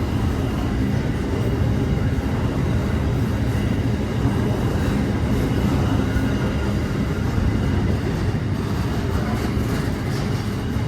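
Long freight train rolling past steadily: a continuous low rumble of wagons going by.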